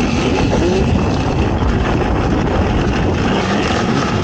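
ATV engine running hard under race load, its pitch rising and falling, in a dense rush of noise.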